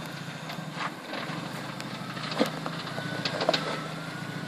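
Jeep Wrangler engine idling steadily, with a few sharp knocks or clicks, the loudest about halfway through and again a second later.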